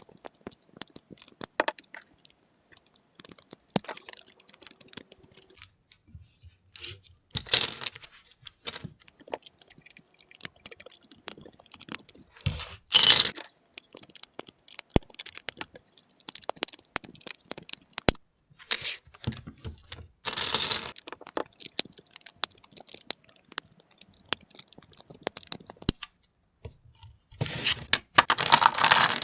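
Plastic LEGO pieces clicking, snapping and rattling as they are handled and fitted together by hand. Several louder bursts of rustling and scraping come at intervals, the loudest near the end.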